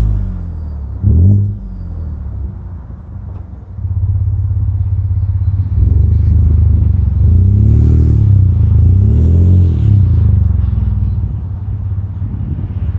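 Ford 2.7 L EcoBoost twin-turbo V6 exhaust through a MagnaFlow straight-through muffler, with a deep tone. It runs low with a short blip about a second in. From about four seconds it is pushed harder and louder, its pitch rising and falling through several revs, then it eases off near the end.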